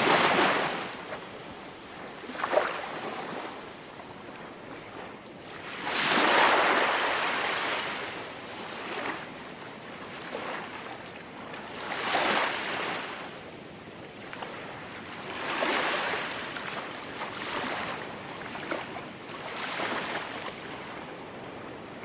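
Ocean surf breaking and washing up a beach. About five swells of surf noise rise and fall over the stretch, the loudest at the start and about six seconds in, with a short sharp splash at about two and a half seconds.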